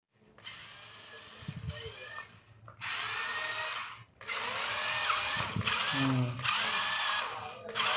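Toy RC rock crawler's electric motor and gearbox whirring in bursts, its whine rising and falling with the throttle, with short pauses between runs.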